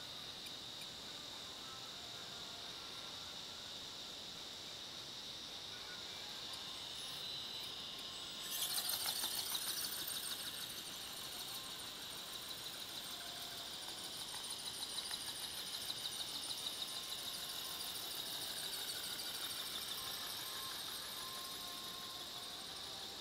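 Insects chirring steadily at a high pitch, with a louder rushing sound starting about eight and a half seconds in and fading over a couple of seconds.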